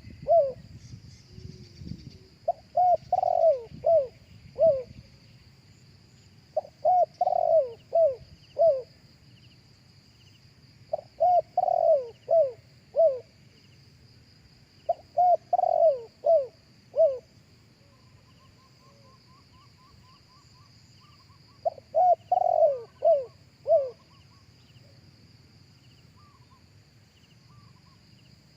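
Spotted dove cooing in repeated phrases of four or five coos each. Five phrases come a few seconds apart, with a longer pause before the last one.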